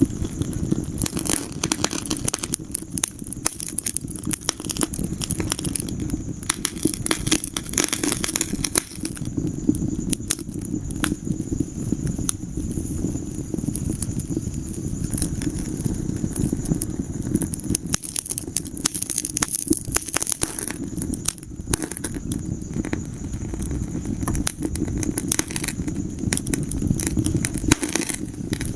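Wood fire in a fireplace crackling, with frequent, irregular sharp pops over a steady low rumble of the flames.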